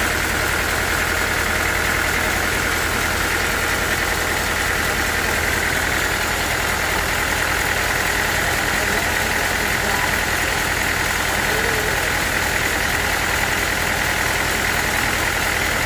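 Sawmill machinery engine running steadily, with a steady high whine over the low hum.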